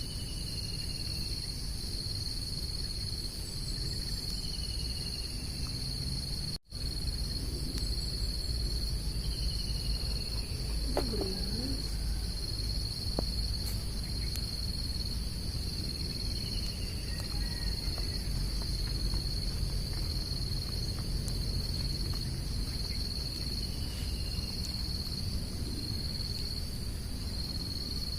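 Outdoor nature ambience. Insects keep up a steady high, pulsing chirring, and a bird gives a short falling call every few seconds over a low background rumble.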